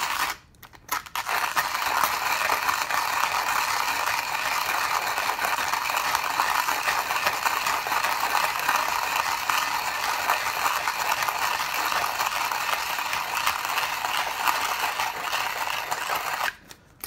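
Khaw-Fee HG1B hand-cranked burr coffee grinder crushing beans at a fine setting: a steady crunching rattle that stops briefly about half a second in and again near the end. This is the last of a 30 g charge being ground, with the hopper nearly empty.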